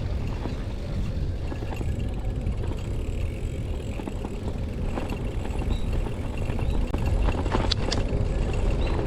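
A Brompton folding bicycle being ridden, with a steady, buffeting low rumble of wind on the microphone and tyres rolling on the path. A few sharp clicks come near the end.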